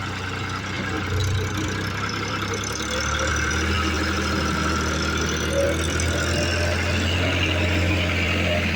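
New Holland 3630 tractor's diesel engine running steadily at low revs, a little louder from about three seconds in.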